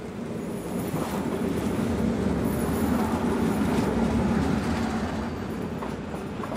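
SBB electric passenger train rolling past on the track beside the platform, its wheels rumbling on the rails. The rumble swells to a peak about halfway and then eases off, with a faint high squeal in the first half.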